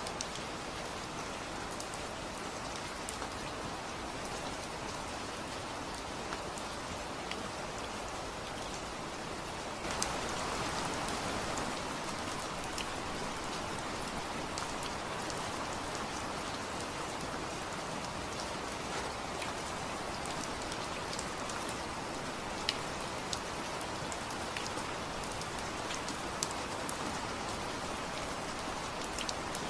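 Steady rain falling, with individual drops ticking sharply on a surface; it gets a little louder about ten seconds in.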